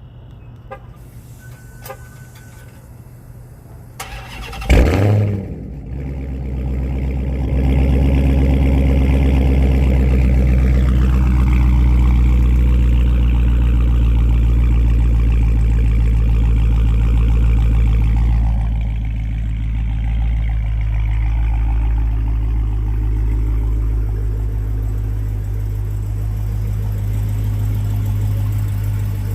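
A 2015 Hellcat's supercharged 6.2-litre Hemi V8 starting through a Borla aftermarket exhaust: a loud flare about five seconds in, then a steady high idle that settles to a lower, quieter idle a little past the halfway point.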